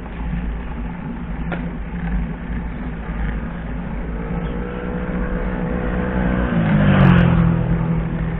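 A motor vehicle approaches and passes close by. Its engine note grows louder over a few seconds, then drops in pitch as it goes past near the end. Wind rumbles on the microphone underneath throughout.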